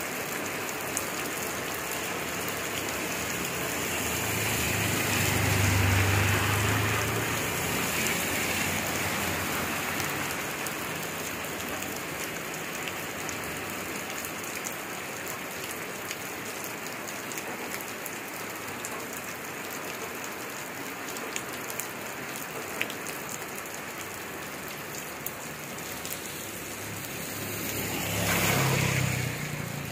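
Heavy rain falling steadily. Twice, about five seconds in and again near the end, a louder rushing swell with a low rumble rises and fades.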